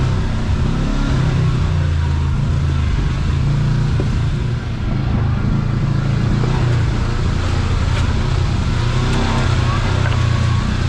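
Kawasaki KRX side-by-side's engine running on a trail ride under changing throttle, its pitch shifting up and down in steps.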